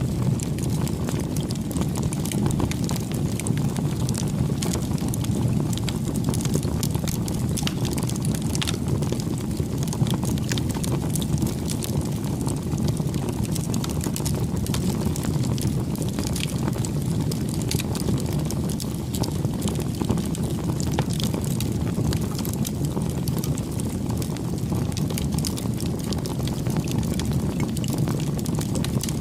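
Campfire burning: a steady low rush of flames with frequent small crackles and pops from the burning wood.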